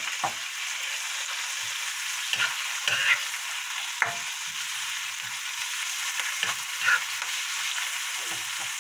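Kimchi, green onion and ham frying in oil in a nonstick pan, stir-fried with a plastic spatula: a steady sizzling hiss broken by scattered scrapes and taps of the spatula on the pan.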